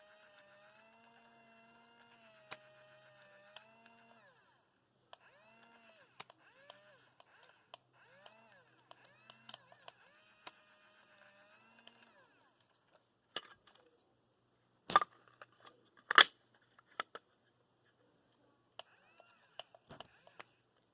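Small electric motors of a remote-control toy construction tractor whining, their pitch rising and falling as they start and stop. Then a few sharp clicks and knocks, two loud ones in the second half.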